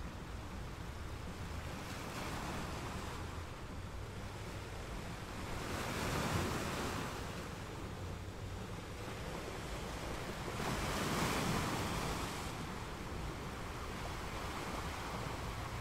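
Ocean waves: a steady wash of surf that swells twice as waves break, about six seconds in and again about eleven seconds in.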